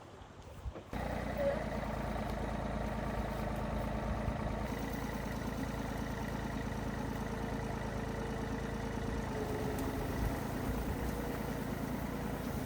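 A vehicle engine idling steadily, cutting in abruptly about a second in.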